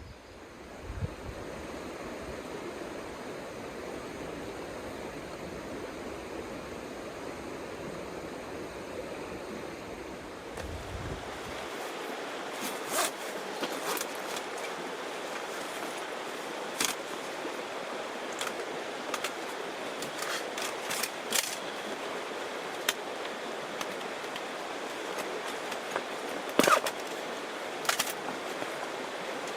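Steady rushing noise of surf. From about twelve seconds in, scattered sharp snaps and pops sound over it.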